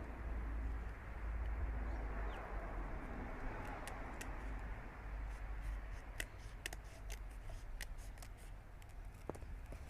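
Scissors snipping through a leaf: a scattering of small, sharp clicks, more of them in the second half, over steady low background noise.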